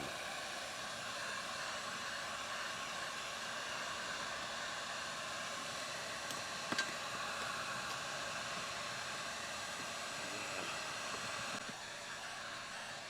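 Heat gun blowing steadily with an even hot-air whoosh, used to warm PVC spa pipe before fitting. One small click about seven seconds in.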